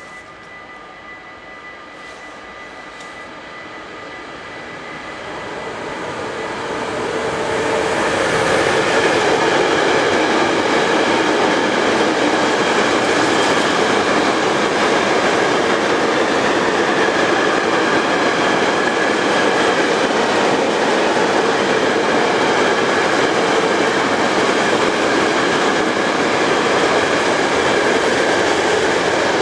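Intermodal container train hauled by an ERS Railways Class 189 electric locomotive, approaching and growing louder over the first eight seconds, then passing close by with a steady loud rumble and rattle of the wagon wheels on the rails.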